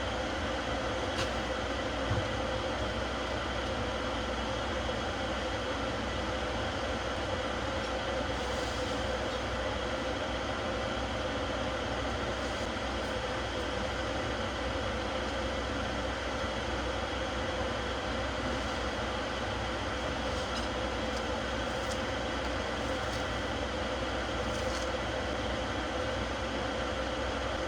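Steady drone of a jet airliner's cabin in flight: an even rushing noise with a faint constant hum and a thin high whine, unchanging throughout.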